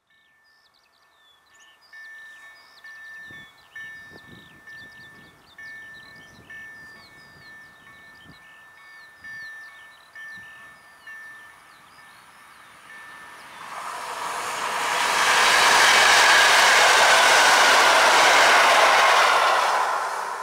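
Birds chirping over an evenly pulsing chime, then, about two-thirds of the way in, the rushing noise of an approaching EN71 electric multiple unit rises, grows loud and holds, easing off at the very end.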